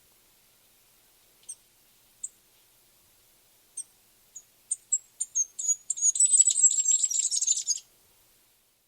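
A small songbird singing: a few sharp high chips spaced well apart, then notes coming faster and running into a rapid high warbling trill for about two seconds, which stops shortly before the end.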